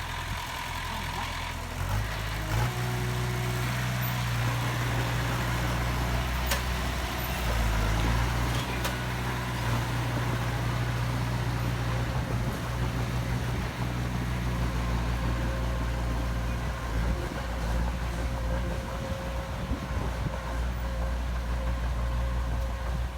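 Diesel engine of heavy construction machinery running steadily. Its level and pitch step up about two seconds in as it comes under load, then hold steady.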